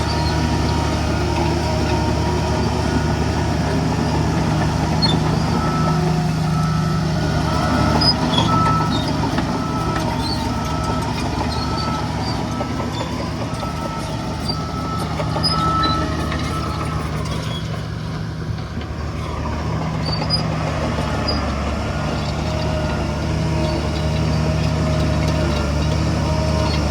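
Heavy diesel earthmoving machinery running steadily, with a reversing alarm beeping at a regular pace for about ten seconds in the middle.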